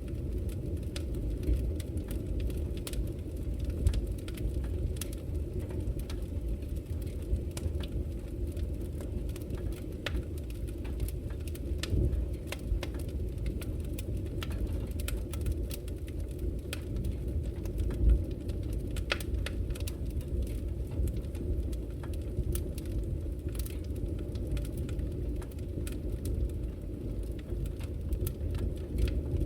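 Wood fire burning in a fireplace: a steady low rumble of the flames with scattered, irregular crackles and pops, a couple of them louder, about twelve and eighteen seconds in.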